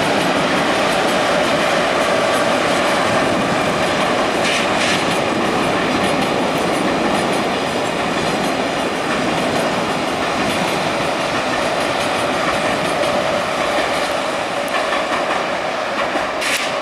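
A train rolling past close by: a steady, loud rumble of steel wheels on the rails, with short sharp clatters over the track about four seconds in and again near the end, easing off slightly at the close.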